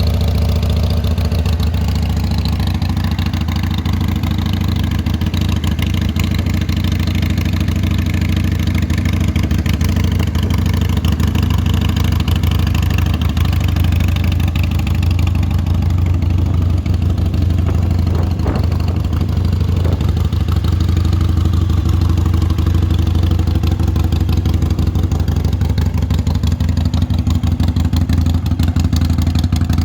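Harley-Davidson XL 883 Iron's air-cooled V-twin idling steadily through aftermarket Crusher exhausts.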